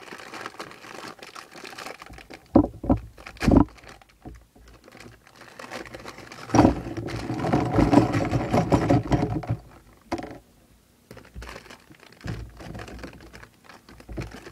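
Plastic Lego polybag being torn open and handled: crinkling and rustling of the thin plastic, with scattered sharp clicks and knocks, and a longer stretch of steady crinkling from about six seconds in.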